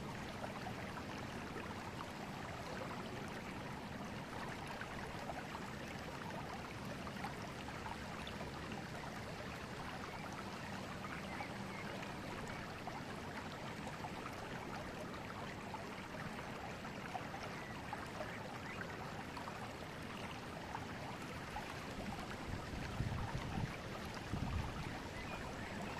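River water flowing with a steady, even rush. A few low rumbling bumps come in near the end.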